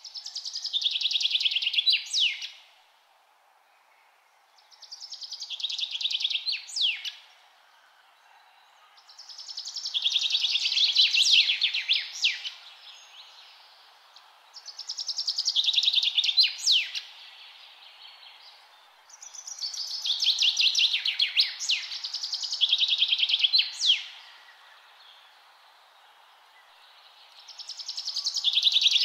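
A songbird repeating the same fast, high trilled song phrase about every five seconds. Each phrase lasts two to three seconds, swells in loudness and ends in a few sharp notes. A faint steady hiss runs beneath.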